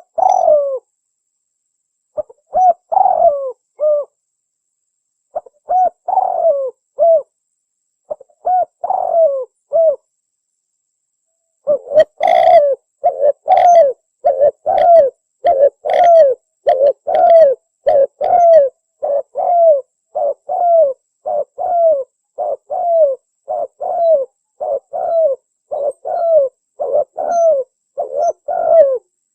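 Spotted dove cooing: short phrases of a few coos separated by pauses, then from about twelve seconds in an unbroken run of coos at roughly one and a half a second.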